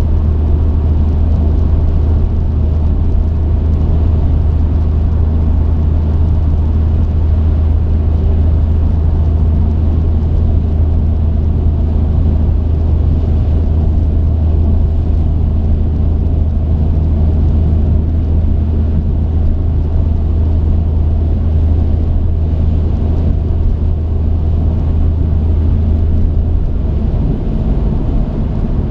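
Truck engine and road noise heard from the cab, running steadily as a deep, even drone.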